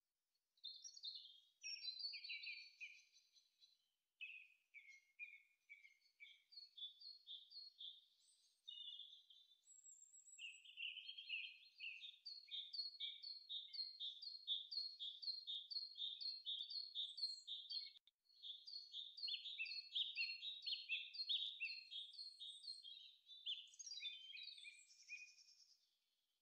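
Faint birdsong: phrases of quick, repeated chirps, at times about three notes a second, broken by short pauses.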